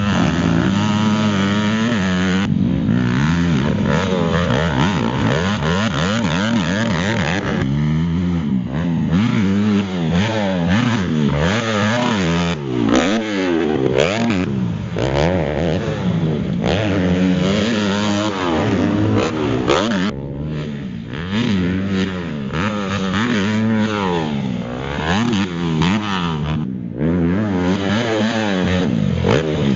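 Honda motocross bike's engine being ridden hard, revving up and down over and over as the throttle opens and shuts through the gears.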